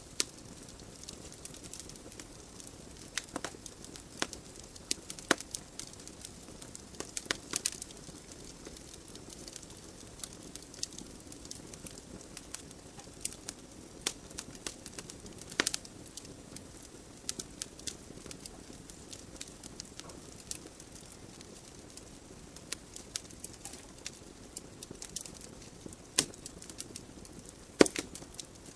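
Wood logs burning in a fireplace, crackling with irregular sharp pops over a soft steady hiss of flames; one of the loudest pops comes near the end.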